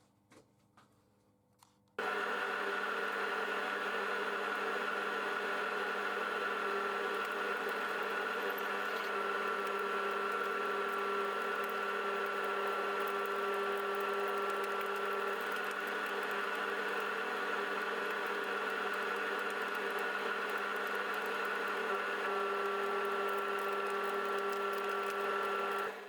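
An electric workshop machine runs at a steady, unchanging pitch. It starts abruptly about two seconds in and shuts off near the end.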